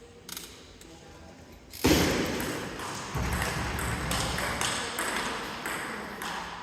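Table tennis ball clicking off bats and table, with voices of people in the hall. Both get suddenly louder about two seconds in.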